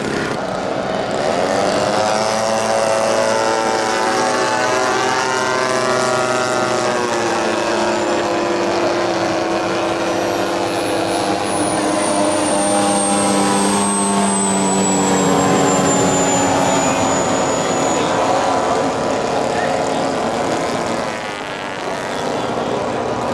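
Propeller engines of giant-scale radio-controlled model warplanes droning in flight, their pitch sliding up and down as the models pass. Several engine tones overlap and beat against each other.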